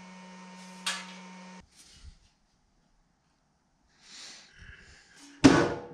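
A steady machine hum with a single sharp metallic strike, cutting off suddenly about a second and a half in. After a quiet stretch comes some faint handling noise, then a loud sharp knock near the end.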